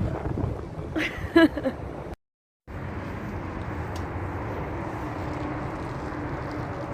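Steady road and engine noise of a moving car, heard from inside the cabin, with a brief voice about a second in and a short hard cut to silence just after two seconds.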